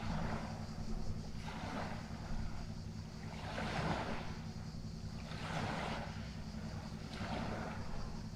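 A steady low motor hum under water washing in regular swells, about one every second and a half.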